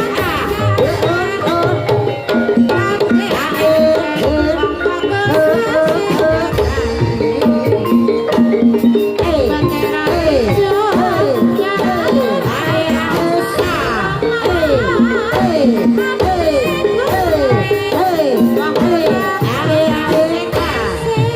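Javanese gamelan music with kendang hand-drum strokes under sustained metallophone tones and a melody that slides up and down in pitch.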